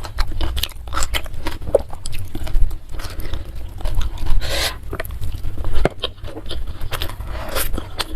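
A person chewing a mouthful of food close to the microphone, with many short wet clicks and smacks.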